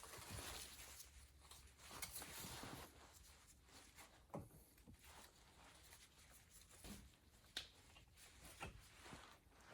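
Faint, scattered clicks and light knocks over quiet room noise.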